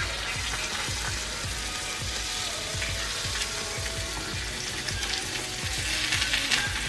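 Eggs frying in oil in a non-stick frying pan on a gas burner, a steady sizzle.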